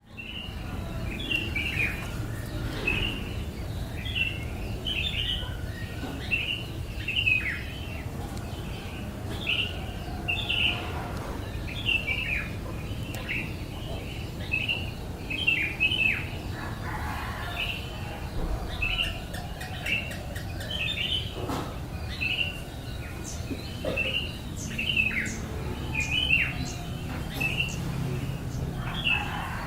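A small bird chirping over and over, short high chirps that drop in pitch, about one or two a second, over a steady low hum.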